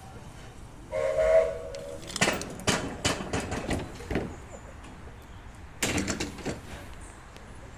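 Short blast on a steam locomotive's whistle, about a second long, followed by a run of sharp, irregular chuffs and knocks, with a second brief cluster a couple of seconds later.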